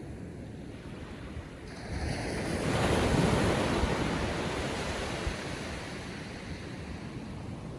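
Ocean surf on calm seas: a wave breaks and washes up the beach. The rush swells about two seconds in, is loudest a second later, then slowly fades as the water runs back.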